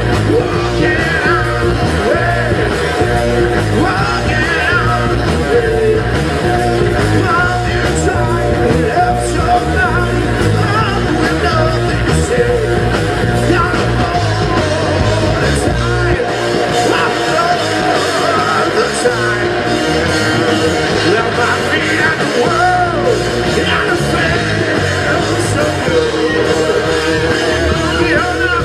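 Live rock band playing loudly with a singer. About halfway through, the deep bass drops away while the singing and guitars carry on.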